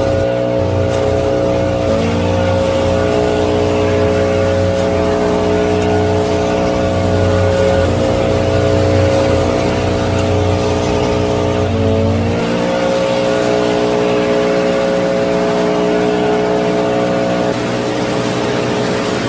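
Mini tractor's motor running with a steady whine, its pitch dipping briefly about two seconds in and again around twelve seconds in.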